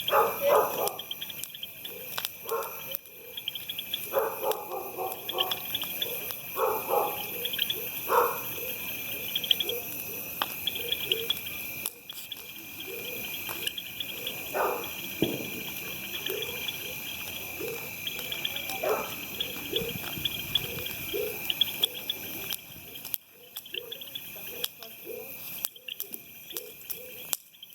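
Insects chirping steadily in a high, pulsing band, with a dog barking several times in the first eight seconds and a few more calls later.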